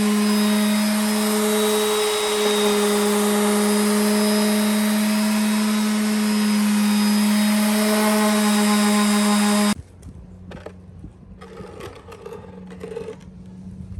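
An electric power tool running steadily with a strong hum, cutting off abruptly about ten seconds in; quieter handling sounds follow.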